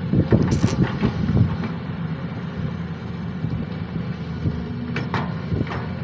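Sany SY215C hydraulic excavator's diesel engine running steadily under work, with a few sharp metallic knocks about half a second in and again near the end.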